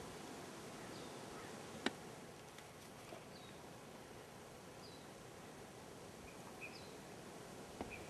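Faint outdoor ambience with small birds giving short, high chirps about once a second. One sharp click comes about two seconds in.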